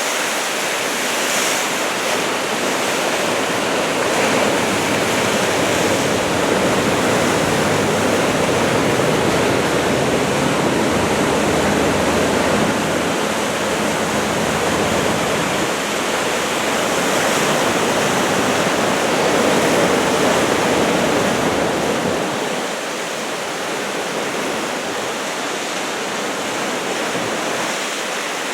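Ocean surf on a post-typhoon swell: waves breaking and washing onto the shore as a continuous rushing that swells louder through the middle and eases a little about 22 seconds in.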